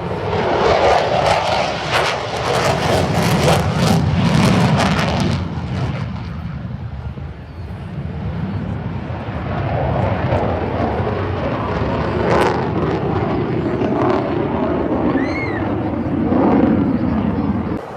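Airplane flying past, a loud rushing engine noise with a low rumble. It eases about six seconds in and swells again from about ten seconds.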